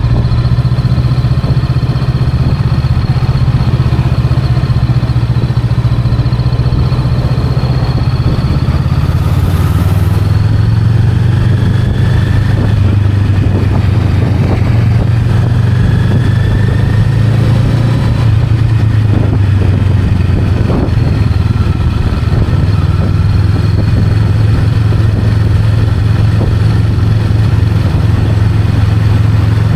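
Honda Rebel 500's 471 cc parallel-twin engine running steadily while riding, its low note stepping up a little about ten seconds in.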